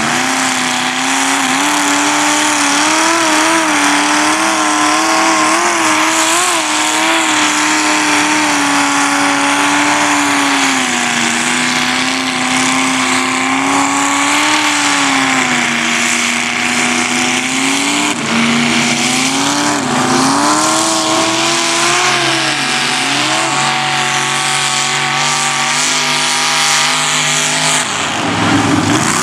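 Mud truck's engine held at high revs throughout, the pitch wavering up and down, with a few sharp drops and quick recoveries about two-thirds of the way through as the throttle is let off and opened again.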